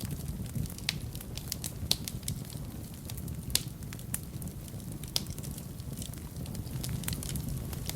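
Fire in a fireplace crackling, with many small sharp pops over a low steady rumble. Louder pops come about two and three and a half seconds in.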